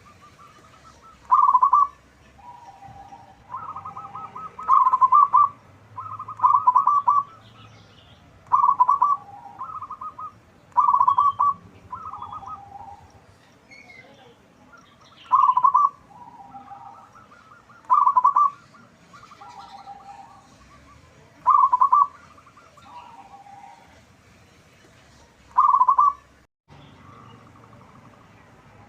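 Zebra dove (perkutut) cooing: its song phrase repeats every two to four seconds, each ending in a loud, rapidly rippling coo, with softer, lower coos in between.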